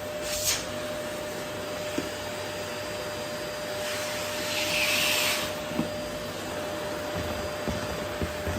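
Vacuum cleaner running steadily, a hiss of airflow with a thin steady whine under it. About four seconds in, the hiss swells louder for over a second before settling back, with a few light clicks scattered through.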